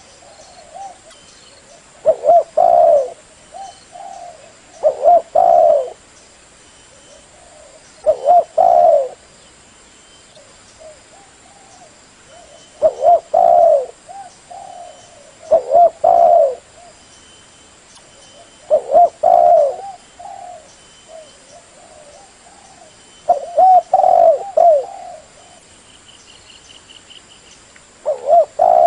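Spotted dove cooing: short phrases of several low, loud coos, repeated every few seconds. A faint high chirping from another bird comes in briefly near the end.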